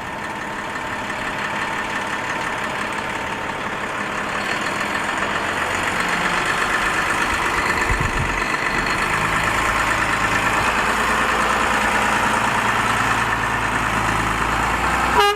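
Diesel engine of a Volvo A30G articulated haul truck running, growing steadily louder, with a deeper rumble joining about halfway through. A horn starts honking right at the end.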